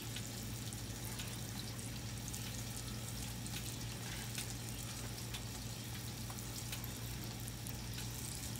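Peppers and onions frying in butter on a Blackstone flat-top griddle under a steel basting dome: a steady soft sizzle with faint scattered pops, over a low steady hum.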